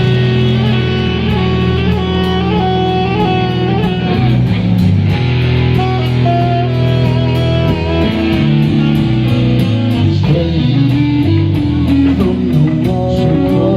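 Live rock band playing an instrumental passage: electric guitar picking out a bending melodic line over bass guitar and a steady, evenly ticking beat.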